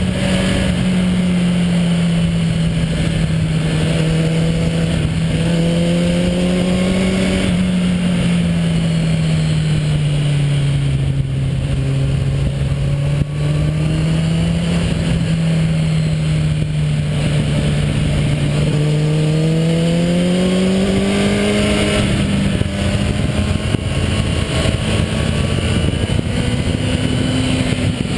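Motorcycle engine and exhaust on the move under a steady rush of noise. The engine note eases down in pitch through the middle, then climbs again as it accelerates about twenty seconds in.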